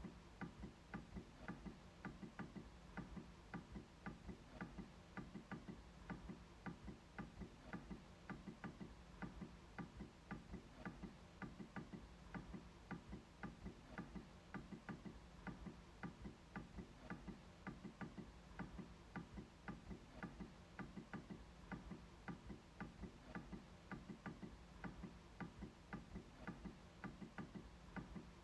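MacBook trackpad being clicked over and over: quiet, sharp clicks about two a second in a slightly uneven rhythm.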